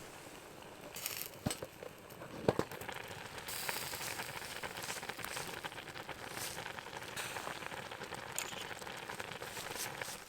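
Small wood fire crackling in a compact fire grill: a steady hiss of fine crackles, with two sharper pops about a second and a half and two and a half seconds in.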